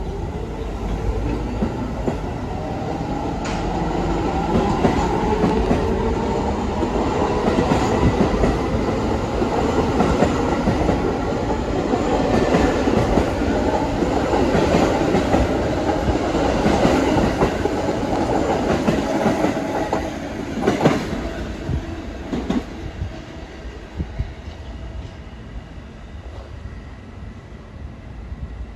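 New York City subway train pulling out of the station: its traction motor whine rises in pitch as it speeds up and its wheels clack over the rail joints. About 21 seconds in there is a sharp clank, and then the sound fades as the train moves away.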